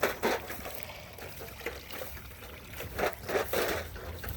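Creek water trickling and splashing over rocks, with irregular louder bursts a few times.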